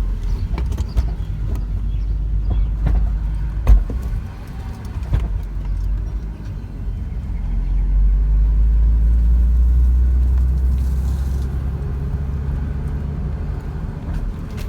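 BMW Z3 3.0's M54 straight-six engine running as the car drives off on its first outing, with a deep rumble that swells about halfway through and eases again. A few sharp knocks and clicks sound over it, the loudest about four seconds in.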